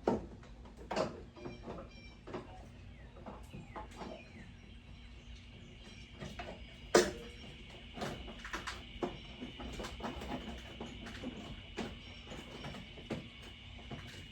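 Gear shift cables being handled and fed through a car's firewall: scattered clicks, rattles and knocks, with one sharp knock about seven seconds in.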